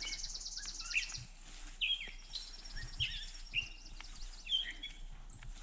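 A songbird singing short phrases separated by brief pauses, over a fast, high trill.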